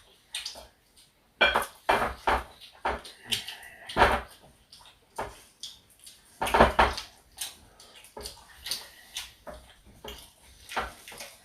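Eating sounds at a meal: utensils clinking and scraping against plates in irregular short clatters.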